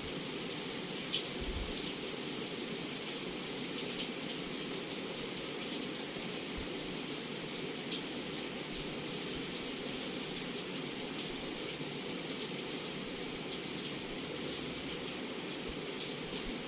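Heavy rain pouring steadily against a window, with scattered ticks of individual drops and one sharp tap near the end.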